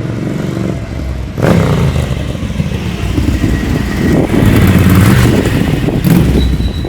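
Ducati 900SS bevel-drive L-twin engine running on the road, its freshly rebuilt engine pulling smoothly. It gets louder about a second and a half in and stays loud.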